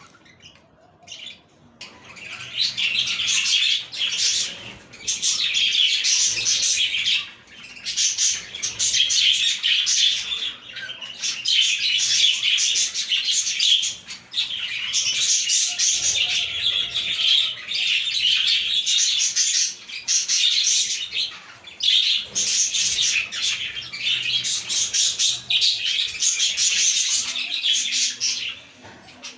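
A flock of budgerigars chirping and warbling together in bouts of a few seconds each, with brief dips between them, starting about two seconds in.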